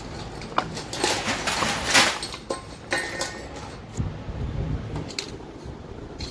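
Metal tools and engine parts clinking and knocking as a new oil pump is fitted onto the engine block, in a series of irregular sharp clicks with a rougher scraping stretch about one to two seconds in.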